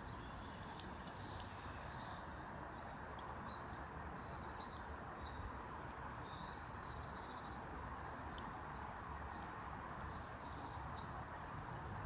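A small garden bird giving short, high call notes, one every second or two, over a steady background hum of outdoor noise.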